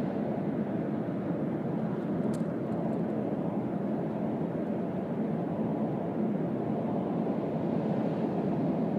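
Steady road noise inside the cabin of a Mazda CX-3 at expressway speed in heavy rain: tyres on the wet road and rain on the body, with one faint click about two seconds in.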